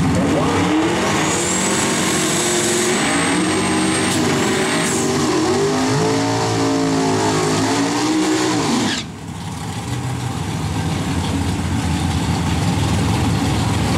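Twin-turbo Chevrolet pickup's engine revving, its pitch rising and falling several times under a high whine. About nine seconds in, the revs drop off abruptly and the engine keeps running lower and steady.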